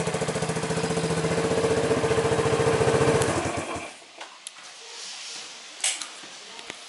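Honda FTR223's single-cylinder four-stroke engine running through a Super Trapp aftermarket muffler with an even pulsing beat, then switched off about four seconds in, the beat stopping abruptly. A few faint clicks and one sharper knock follow.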